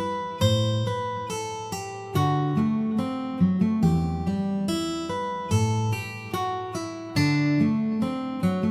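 Acoustic guitar playing an instrumental melody: single plucked notes ring and fade over low bass notes struck every second or two.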